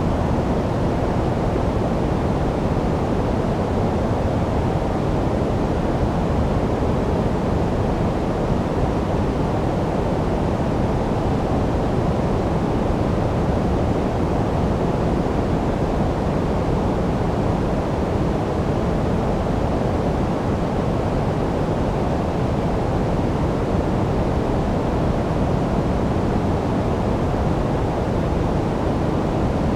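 Continuous electronically generated sleep noise: an even, unchanging hiss with most of its weight in the low end, so it sounds deep and dull rather than bright.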